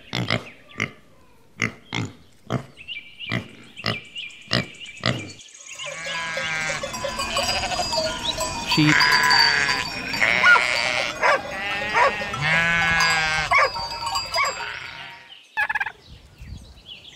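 A domestic pig grunting in short, regular grunts for about five seconds, then sheep bleating, several long wavering bleats overlapping, until near the end.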